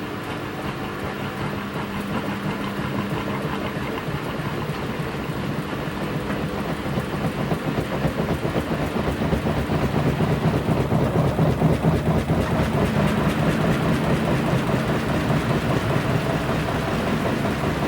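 Washing machine running mid-cycle: the motor hums and the drum turns the wash with a steady churning rattle, growing louder about halfway through.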